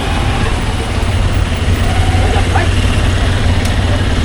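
Motorcycle engine running steadily while riding, a low drone under constant road and wind noise.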